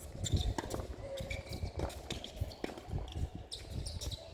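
A tennis ball being hit and bouncing on the court, heard as a series of sharp, irregularly spaced knocks over low thuds of footsteps.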